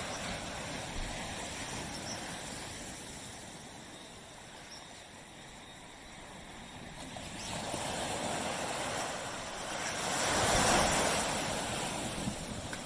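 Tropical surf washing onto a beach: a steady hiss of small waves, with one wave swelling up near the middle and a larger one breaking and washing in about two-thirds of the way through before fading.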